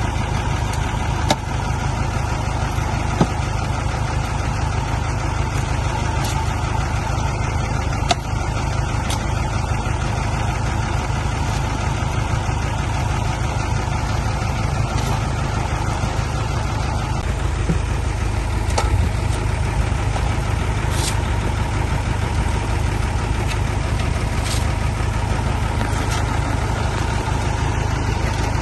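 Heavy diesel engine running steadily at low speed, with a few short knocks in the first several seconds.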